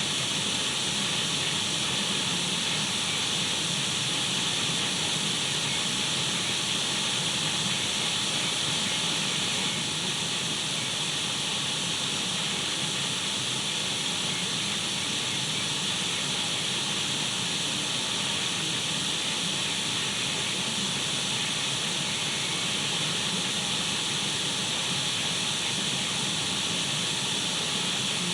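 Radio static: the steady hiss of a radio tuned between stations, unchanging throughout, brightest in the upper-middle range.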